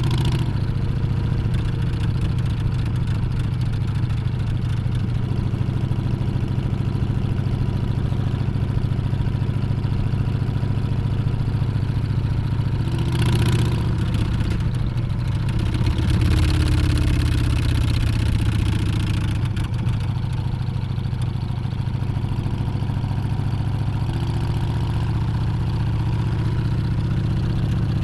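Harley-Davidson Street Bob's Milwaukee-Eight V-twin running under way, a steady low engine note whose pitch shifts with the throttle. There is a brief rush of noise about halfway through and a slightly louder stretch just after.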